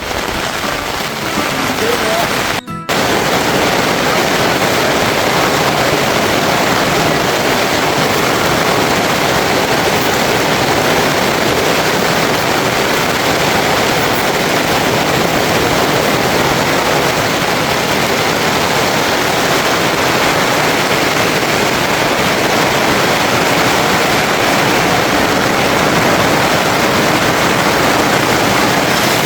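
Steady rushing water, an even roar of heavy rain or running water, broken by a brief dropout about three seconds in.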